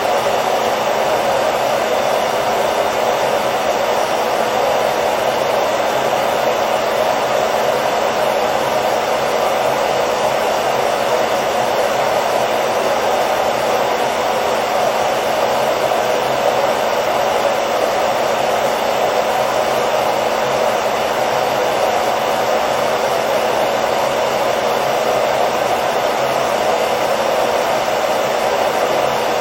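Hair dryer running steadily, an even rushing of air over a motor hum with no change in speed.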